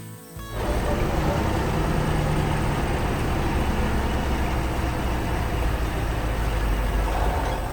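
Steady motor-vehicle engine rumble with a broad noisy hiss over it. It starts about half a second in and cuts off near the end.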